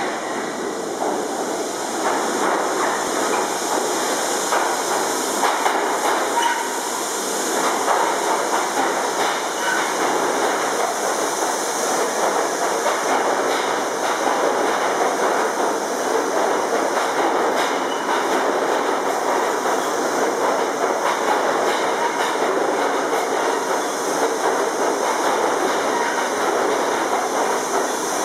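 R68 New York City subway train running along the track, its wheels clattering over the rails in a steady, continuous rumble.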